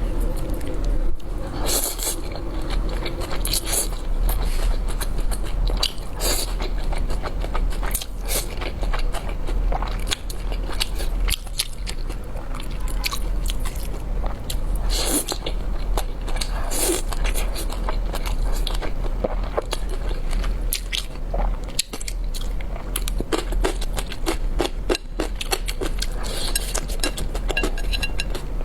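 Close-miked chewing and eating of spicy udon noodles: dense, irregular short clicks and smacks, over a steady low hum.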